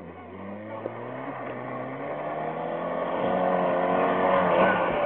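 Ford Aspire's engine running under throttle, growing steadily louder as the car approaches.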